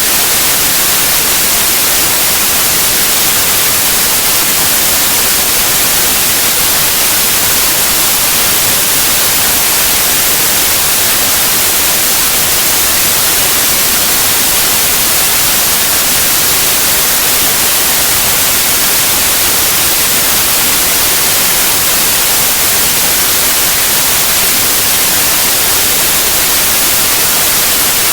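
Steady white noise: an even, unchanging hiss spread across all pitches, brightest in the highs.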